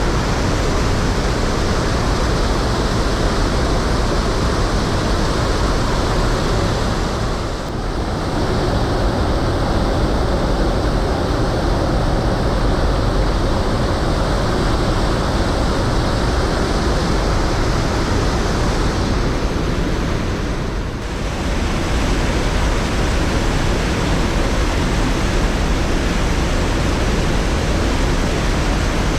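Steady rush of water pouring over a man-made waterfall at an old mill dam. It drops briefly in level twice.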